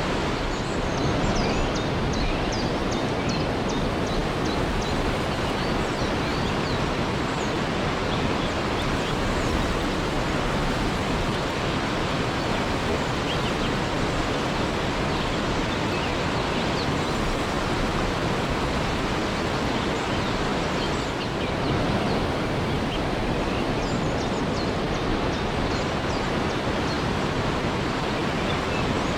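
Waterfall rushing steadily, an even roar of falling water. Short high chirps sound over it about a second in and again near the end.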